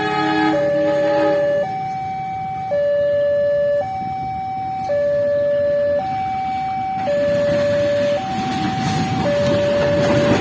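Railway level-crossing warning alarm sounding two alternating tones, each held about a second, repeating steadily to signal an approaching train. A short horn sounds at the start, and from about eight seconds in a rumble grows louder.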